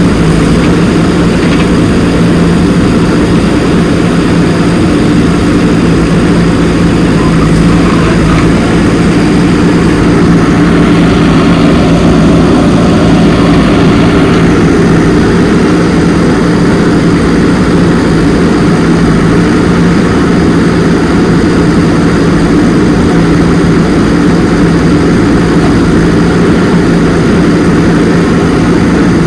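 Loud, steady mechanical hum held at one constant pitch, from a machine motor running at an unchanging speed.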